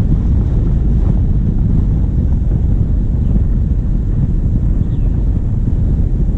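Steady low rumble of wind buffeting a bonnet-mounted action camera's microphone, mixed with a diesel engine running as the vehicle drives.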